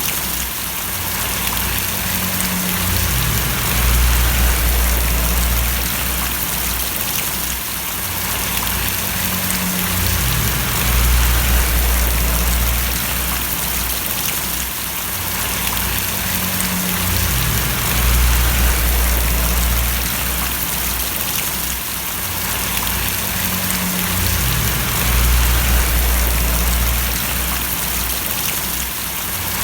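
Steady rain falling and splashing, a dense even hiss. Under it a low rumble swells and fades roughly every seven seconds.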